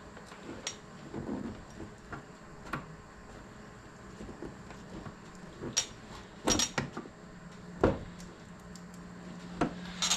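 Irregular sharp clicks and knocks of a tool prying at plastic fender-liner push clips whose tops are broken off, loudest in a cluster a little past the middle.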